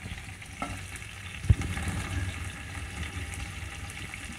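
Onions, garlic, tomatoes and whole spices frying in oil in a pressure cooker pan, a steady low sizzle, with a single sharp knock about a second and a half in.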